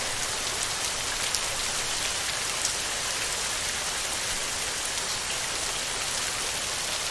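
Heavy rain falling steadily on a metal roof: an even hiss with scattered sharp ticks of single drops.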